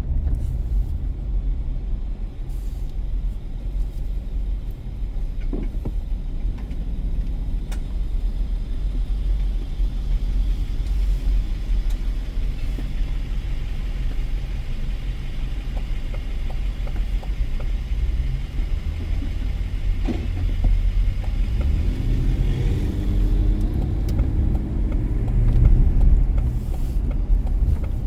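Car driving on city streets: steady low rumble of road and engine noise, with an engine note rising and falling briefly near the end.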